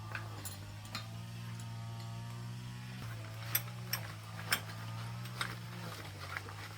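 A small machine running with a steady hum, with irregular sharp clicks and knocks of parts over it.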